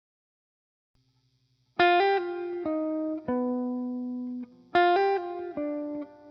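Soft instrumental music on a plucked guitar: after a couple of seconds of near silence, a short phrase of plucked notes, each fading out, is played and then repeated about three seconds later.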